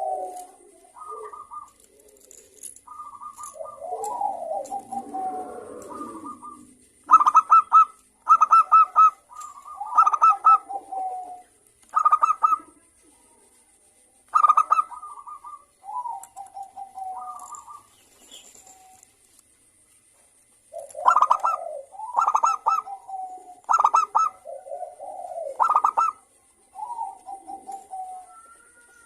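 Zebra doves cooing, several birds answering one another in repeated bouts of rapid, stuttering coo phrases with short pauses between bouts.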